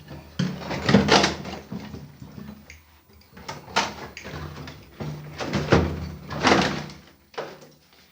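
A small cabinet being handled: a string of knocks, bangs and scrapes as its door is worked open and shut. The loudest are about a second in and around six and a half seconds in.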